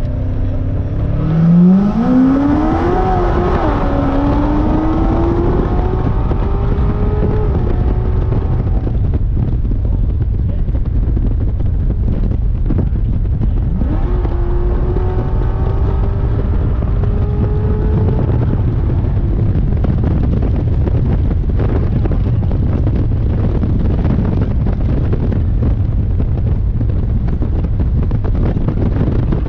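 C7 Corvette's V8 heard from inside the cabin, accelerating hard. The engine note climbs from about a second in, dips briefly at a gear change and climbs again. A second, gentler pull comes about halfway through, and steady road and wind noise runs under the rest.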